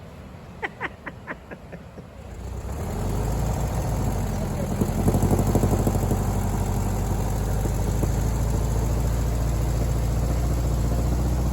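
A few quick clicks, then a car engine that comes up over about a second and a half and runs steadily, loudest briefly about five seconds in.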